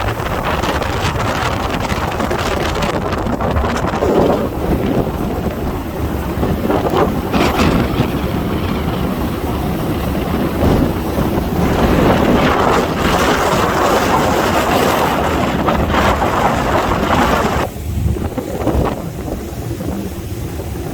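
Wind buffeting the microphone over the rushing noise of a boat under way, gusting up and down and easing a little near the end.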